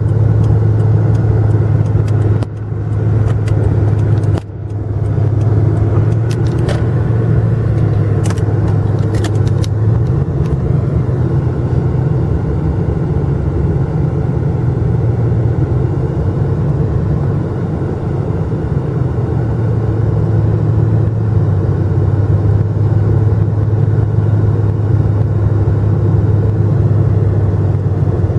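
Motor vehicle engine running with a steady low drone, dipping briefly twice in the first few seconds.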